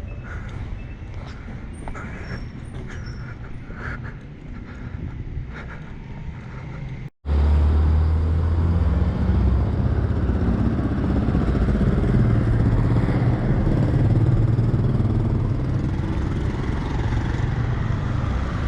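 Outdoor street ambience with a few faint, short high chirps; after an abrupt cut about seven seconds in, a louder, steady low rumble takes over.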